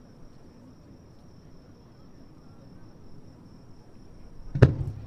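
A single distant aerial firework shell bursting with a sharp boom near the end, over the steady, high pulsing trill of insects.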